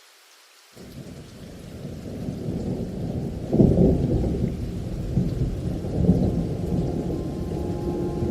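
Rain falling, with a thunderclap: a low rumble sets in about a second in, swells to a sharp peak partway through and keeps rolling on.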